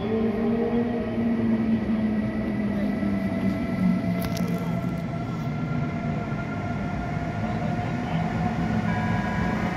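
Siemens Vectron electric locomotive pulling an express train out of the station: a steady rumble with several whining tones from its traction equipment, rising slowly in pitch as it gathers speed.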